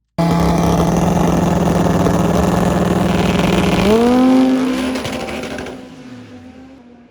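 A drag race car at full throttle down the strip. It cuts in loud with a steady engine note, the note climbs in pitch about four seconds in, and then it fades away as the car goes off.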